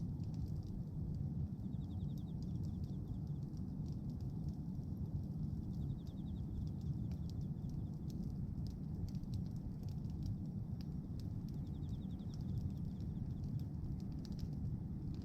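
A wood bonfire of pruned branches crackling, with many sharp little pops over a steady low rumble. A faint, fast-pulsed chirp comes and goes a few times in the background.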